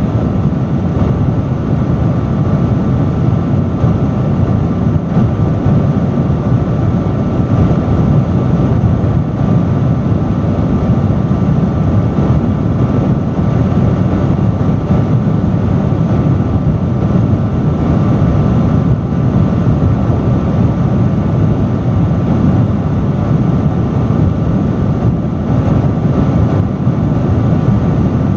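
Industrial fan running steadily: a deep, even rush of air with a faint steady whine above it.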